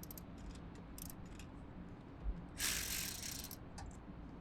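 A ratchet and socket working the nut on a car battery's negative terminal clamp: scattered small clicks, then a louder rasping burst lasting about a second.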